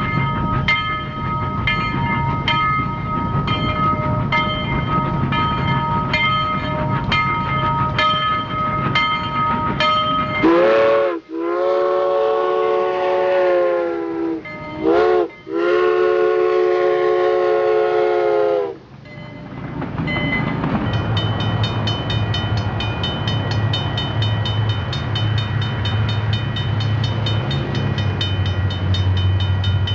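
A train rolling with a regular click about every two-thirds of a second. Then a multi-tone train whistle sounds in blasts for about eight seconds: a brief one, a long one, a short one and a long one, each sliding up in pitch as it starts. After it, the train runs on with a steady low rumble and fast even ticking.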